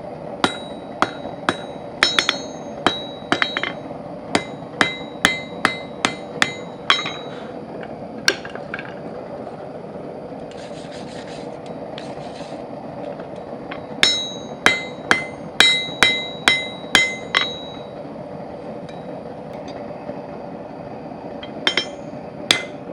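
Hand hammer striking hot steel bar stock on an anvil in runs of ringing blows, about two a second, with pauses between the runs. A steady hum runs underneath.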